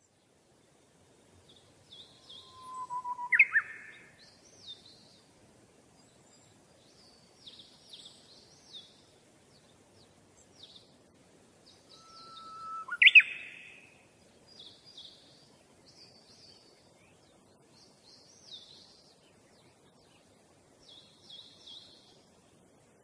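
Birds chirping: quick high chirps come and go throughout, and two louder calls, about three seconds in and again about thirteen seconds in, each a short steady note that jumps into a quick rising sweep.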